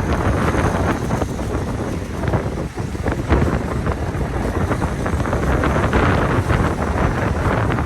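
Wind buffeting the microphone: a continuous rough rushing with crackly gusts, dipping briefly a few seconds in.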